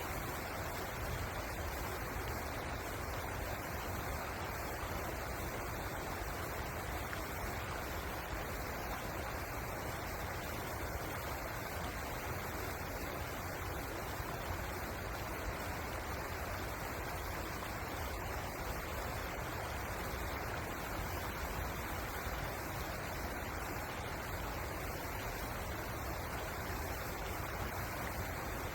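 River water flowing, a steady rush with a low rumble underneath.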